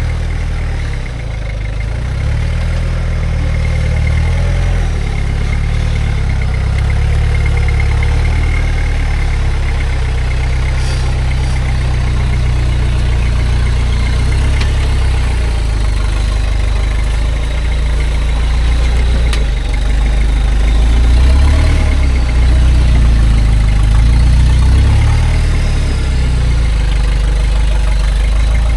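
Toyota Hilux LN106's 3.0 turbo diesel engine running at low crawling revs as the truck creeps up a rock climb. A deep, steady rumble that swells a little past the middle.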